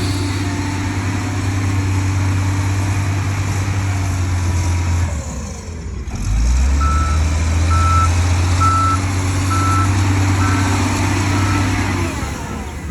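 Heavy diesel earthmoving machine running under load, its engine dropping briefly about five seconds in and picking up again, then its reversing alarm beeping about once a second, six times.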